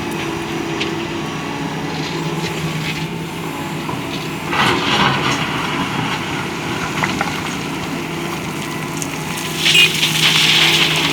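Doosan DX225LCA excavator's diesel engine running steadily under load. Gravel rattles and scrapes about four and a half seconds in and again near the end as the bucket works the load.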